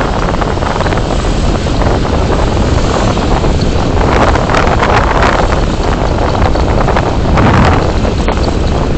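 Road and wind noise from a moving car: a steady rumble and rush, with wind buffeting the microphone and a few swells in loudness about halfway through and again near the end.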